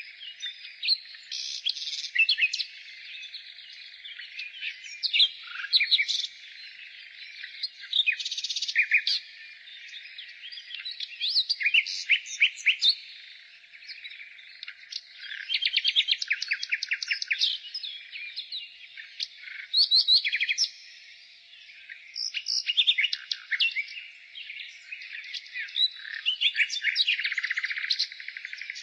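Nightingale singing, one phrase after another without a break: fast trills of rapidly repeated notes mixed with short clear whistles.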